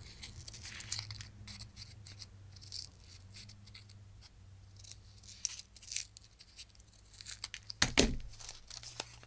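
Scissors snipping through scrapbook paper in many short cuts, making a wiggly cut, with a single louder knock about eight seconds in.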